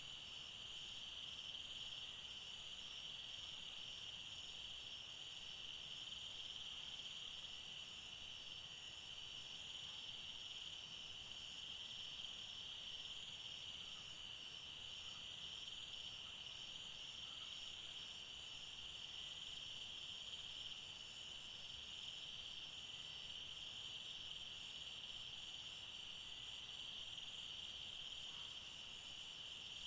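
A chorus of insects chirring steadily, with a high continuous drone and a faster pulsing trill above it. Brief, even higher hisses come in near the start, about halfway through and near the end.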